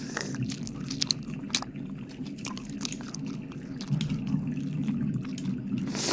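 Close-up wet mouth sounds: licking and smacking right at the microphone, a stream of irregular sharp wet clicks.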